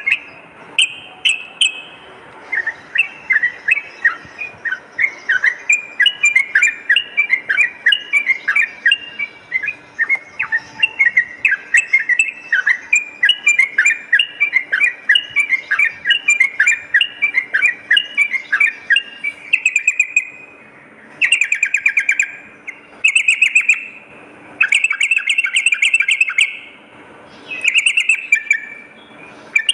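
Yellow-vented bulbuls (trucukan) singing: a long, rapid run of short, bubbling chattering notes. In the last third this breaks into several louder bursts of song separated by short gaps.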